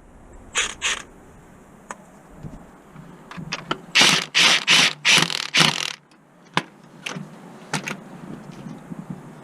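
Ratchet wrench being worked on car parts in short rasping strokes: two strokes about half a second in, then a quick run of about six strokes in the middle, followed by a few sharp metal clicks.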